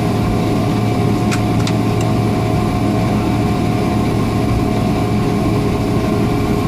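Steady cabin hum of a Boeing 777-300ER taxiing after landing, its engines at low power with a few steady tones. A couple of faint clicks about a second and a half in.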